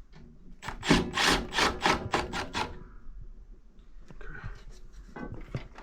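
Rhythmic scraping or rasping by hand, about eight quick strokes at roughly four a second, then fainter clicks and rubbing of tools being handled.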